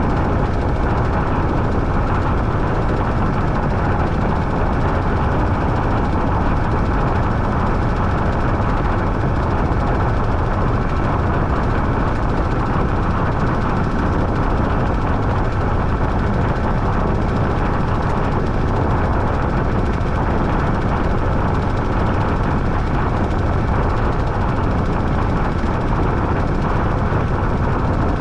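Washing machine running: a loud, steady mechanical drone with no breaks.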